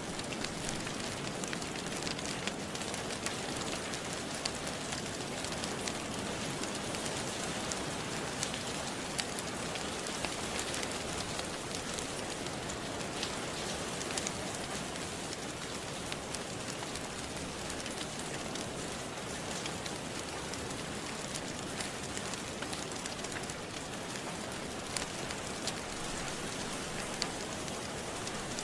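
Steady rain falling, with small sharp crackles and pops of a wood fire scattered through it.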